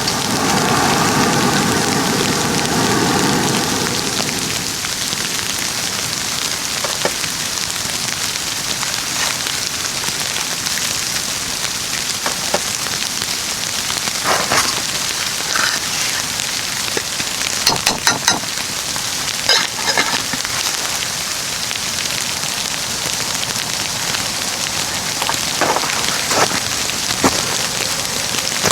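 Steady hiss and patter of wet falling snow, with scattered sharp pops and clicks now and then. A whistling tone sounds over the first few seconds.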